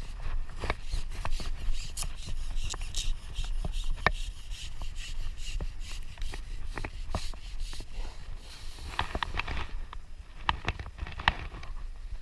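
A run of irregular clicks and knocks close to the microphone, some in quick clusters about three-quarters of the way through, over a steady low rumble.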